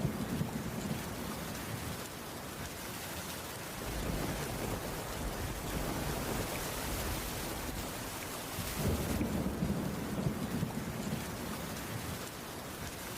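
Heavy rain falling steadily. Deep low rumbles swell twice, at the very start and again about nine seconds in.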